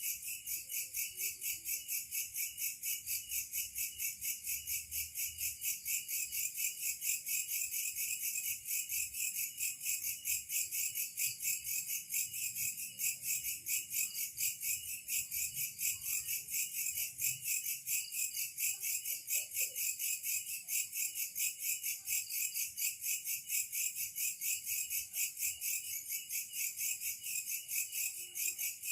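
Insects chirping in a steady chorus, a high-pitched sound pulsing evenly several times a second without a break.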